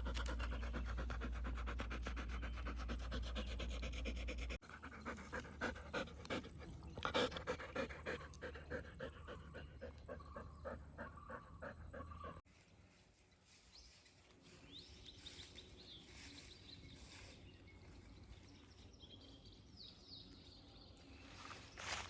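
Dog panting fast and steadily. The sound breaks off abruptly twice, and after about twelve seconds it is much fainter.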